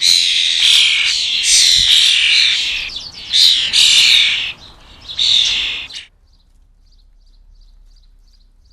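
A run of loud, harsh, rasping bird calls, each under a second long, of the kind fledglings make when begging for food; they stop about six seconds in. After that, faint short chirps repeat about three times a second.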